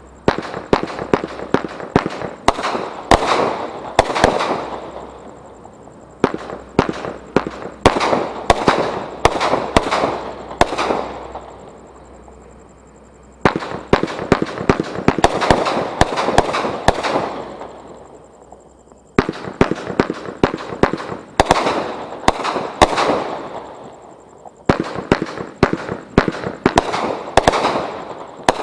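Consumer fireworks going off in five volleys of rapid, sharp bangs, each volley lasting several seconds with a fading crackle after it and a short lull between volleys.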